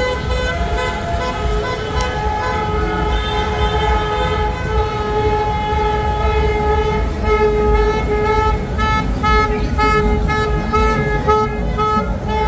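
Several car horns honking in celebration over traffic rumble, some held long. From about halfway, one horn beeps in short repeated blasts about twice a second.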